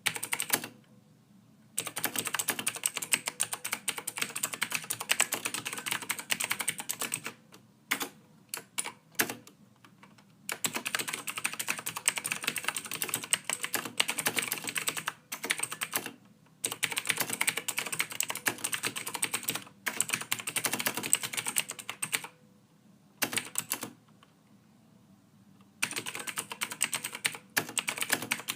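Typing on a computer keyboard: fast runs of key clicks lasting several seconds, broken by short pauses and a few brief clusters of keystrokes.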